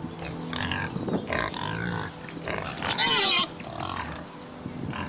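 Pig grunting and squealing in short, irregular calls, with one loud, high squeal about three seconds in.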